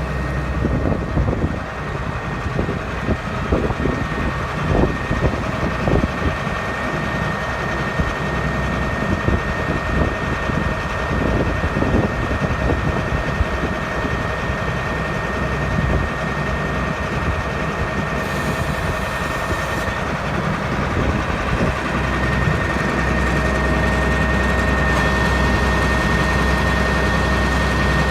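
2003 AGCO Challenger MT 635 tractor's diesel engine running steadily, with a thin steady whine over the rumble; about three-quarters of the way through the running gets a little louder and deeper.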